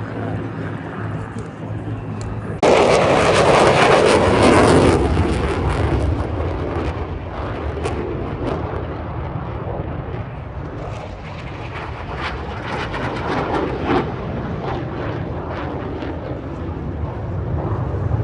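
Aircraft noise at an airshow display. A low engine hum gives way abruptly, about three seconds in, to a loud rushing roar that peaks for a couple of seconds and then fades to a lower rumble.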